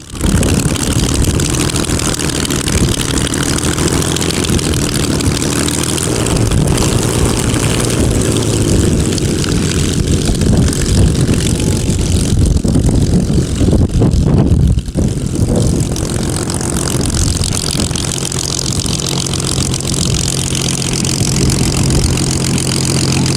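Supermarine Spitfire's V12 piston engine running loudly at startup, with propeller noise, the phase in which it shoots flames from its exhaust. The sound comes in suddenly and briefly dips about two-thirds of the way through.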